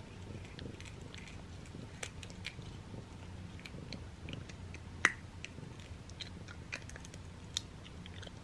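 A cat crunching on a dehydrated ground-chicken and catnip treat: scattered crisp crunches, with one sharper click about five seconds in.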